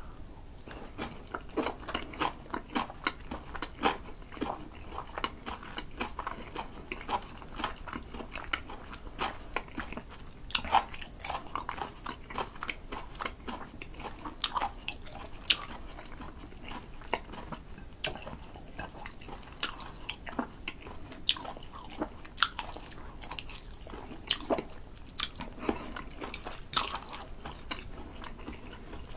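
Close-miked chewing of a mouthful of grilled sea eel in spicy sauce with pickled ginger: many irregular wet mouth clicks and smacks, with a few sharper crunches.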